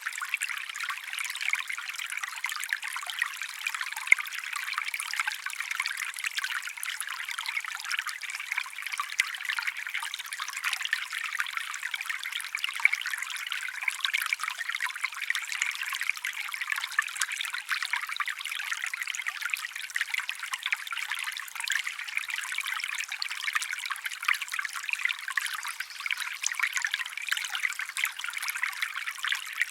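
Small stream trickling steadily over stones, a thin, bright splashing with no low rumble.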